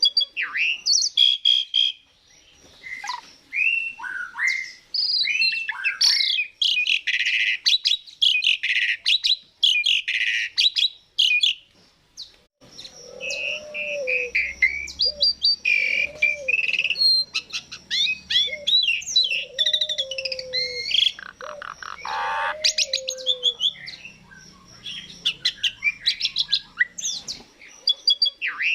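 Asian pied starling (jalak suren) singing a long, varied song of whistles, chirps, glides and rapid rattles. From about halfway, a lower run of short, repeated falling calls joins in beneath the song.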